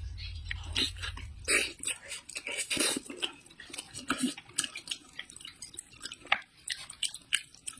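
Close-up eating sounds of a person eating fish: irregular wet smacks and chewing clicks. A low hum fades out about a second and a half in.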